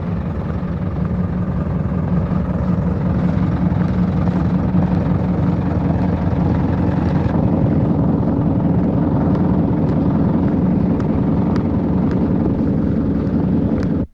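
Farm tractor engine idling steadily, a constant low mechanical drone with a few light clicks in the second half, cutting off abruptly at the end.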